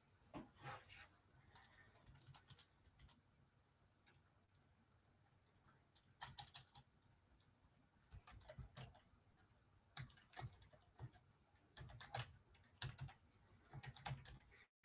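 Faint typing on a computer keyboard: irregular clusters of light key clicks with short gaps between them.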